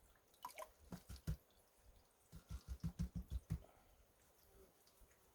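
Plastic gold pan being worked by hand at the end of panning, with water in it: a few small clicks and drips, then a quick run of about eight soft knocks, roughly six a second, as the pan is shaken and tapped.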